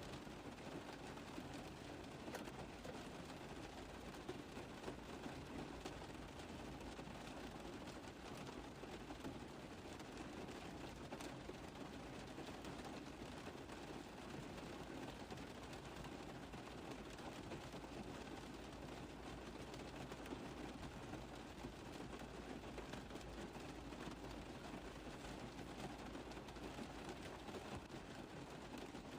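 Rain tapping steadily on a car roof: a dense, even spread of small drop hits with no change in strength.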